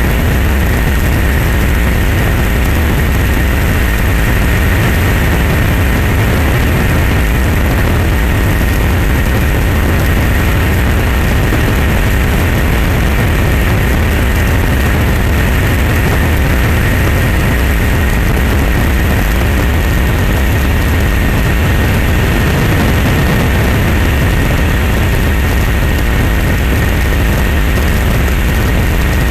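A loud, unchanging engine drone with a deep rumble and a steady high whine, starting abruptly out of silence.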